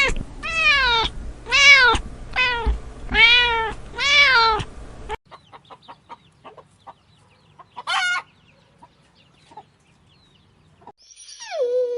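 A cat meowing about six times in quick succession, each meow rising then falling in pitch. After a few seconds of faint ticks there is one short meow. A different animal's whining call starts near the end.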